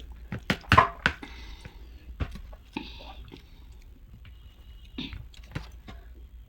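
Eating sounds from a bowl of chatpate, the spicy Nepali puffed-rice snack: a scatter of sharp clicks and light knocks, thickest in the first second and a half, with short hissy breaths or sniffs about three and five seconds in.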